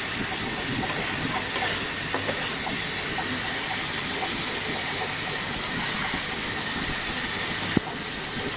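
Onion-and-spice masala sizzling in oil in a frying pan with a steady hiss, and a few light clicks as a spatula stirs it. The oil has separated from the masala, the sign that it is nearly fully fried.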